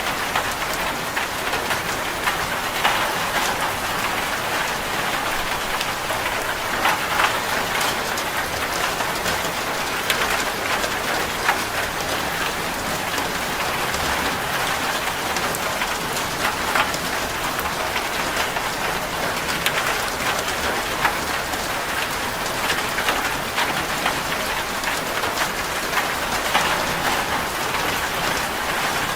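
Steady heavy rain drumming on a corrugated zinc sheet roof, a dense patter with many sharp individual drop ticks.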